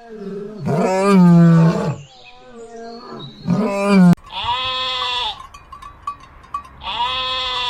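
Animal calls: two long, wavering, pitched cries, then after a sudden cut two shorter calls that drop in pitch at the end.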